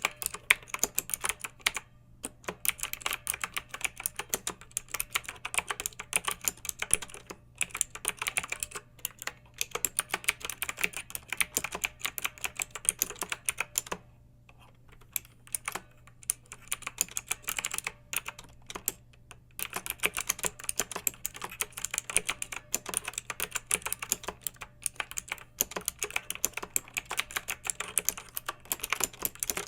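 Fast typing on a clicky mechanical keyboard: a dense run of sharp keystrokes, broken a few times by brief pauses of about a second or less.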